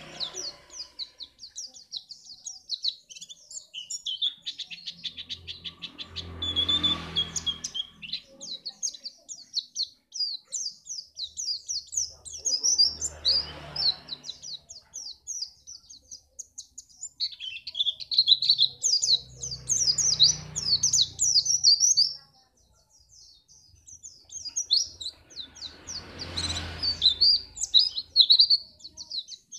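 White-eye (pleci) singing a fast, unbroken twittering song of high chirps and trills. A low noise rises and fades four times underneath it.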